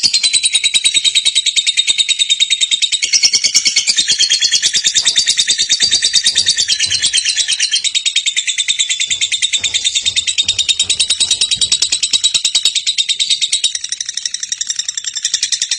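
Lovebird singing a long, unbroken 'ngekek' chatter: a rapid run of sharp, high chirps that keeps going without a pause.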